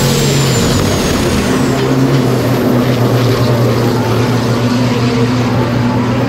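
A car engine running at a steady pitch, with a high whine that slides down and fades over the first two seconds.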